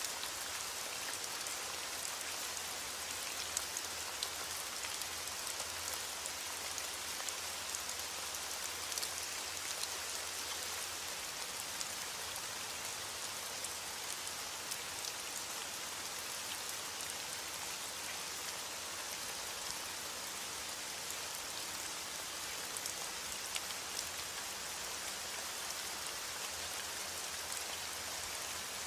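Heavy rain falling steadily on a window, an even hiss with scattered sharp ticks.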